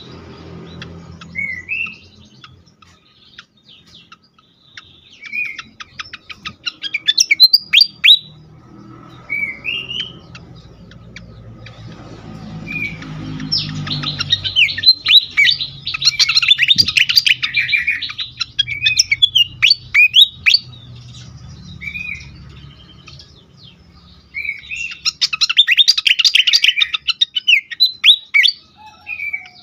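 Fantail (sikatan kipas) singing agitatedly: short whistled notes that sweep up and down, broken by two long bursts of rapid, jumbled chattering notes.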